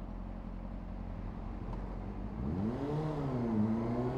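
Honda CBR600RR inline-four engine running low and steady, then revving up from about halfway in: the pitch climbs, dips briefly and climbs again as the bike pulls away.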